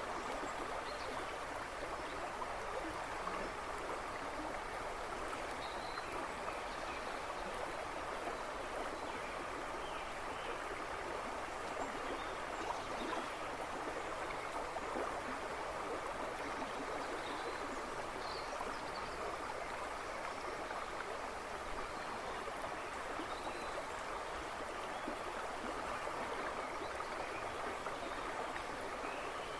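A river rushing and babbling steadily, with a few faint bird chirps from the woods in the background.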